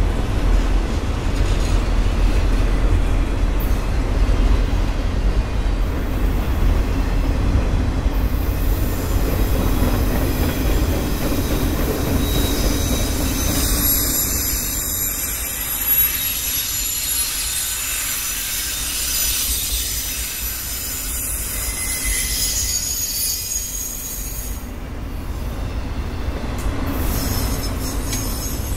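Autorack freight cars rolling past: a steady rumble of steel wheels on rail, with high-pitched wheel squeal coming in about a third of the way through and fading out near the end.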